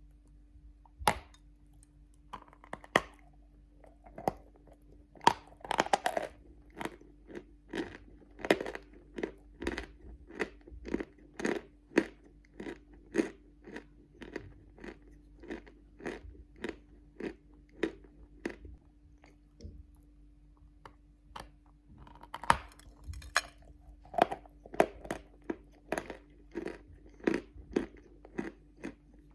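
A person biting and chewing hard natural clay-chalk close to the microphone: a run of sharp crunches, roughly one to two a second, with a few louder bites. A steady low hum lies beneath.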